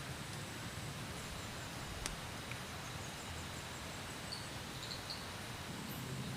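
Steady hiss of rain falling around a camp shelter, with one sharp click about two seconds in and a few faint, high chirps near the end.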